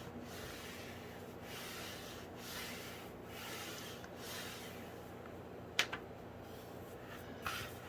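Faint rubbing strokes, roughly one a second, of a hand or folding tool pressing glued fabric down along the edge of a hardback book cover, with one sharp click a little before the end.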